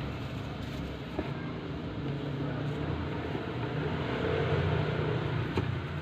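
Steady low rumble of road traffic, swelling about two-thirds of the way through, with a couple of faint clicks.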